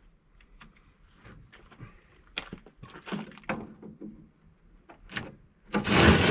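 Scattered metal clicks and knocks from hand tools and parts of a scrap air-conditioning unit being worked on, ending in a louder scraping clatter near the end.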